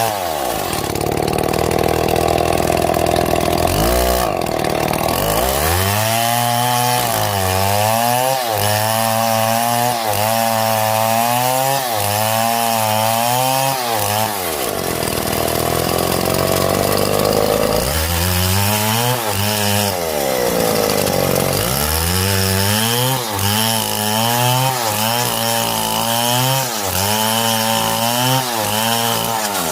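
Two-stroke chainsaw cutting wood, its engine pitch swinging up and down over and over, with two longer stretches of steady high running, one near the start and one around the middle.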